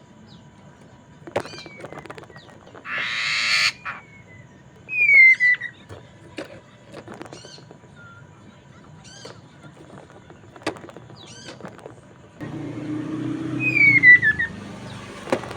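Masked laughingthrush (poksay mandarin) calling: a string of short, sharp chirps, with a harsh rasping burst about three seconds in and two loud falling whistles, one near the start and one near the end. A low background rumble comes in over the last few seconds.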